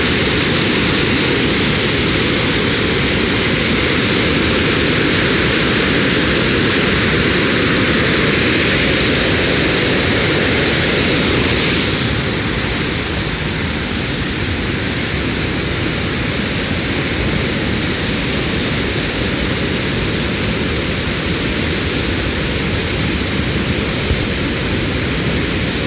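Loud, steady roar of floodwater being released from Hiyoshi Dam after heavy typhoon rain. The high hiss eases a little about twelve seconds in.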